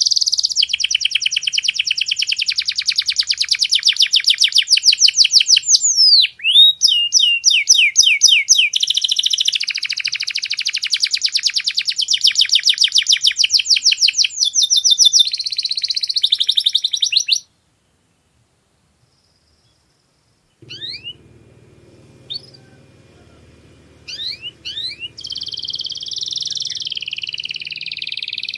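Domestic canary singing a high-pitched song of rapid, evenly repeated trills, broken by a few slow sliding notes. The song cuts off abruptly about 17 seconds in. After a few seconds of silence there is a faint low hum with a few scattered rising chirps, and the trilling starts again near the end.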